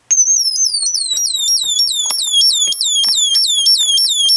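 Electronic bird-chirp generator (a BD139/BD140 transistor circuit driven by a second multivibrator) chirping continuously: a rapid, even train of high chirps, each falling in pitch, about four a second, starting abruptly.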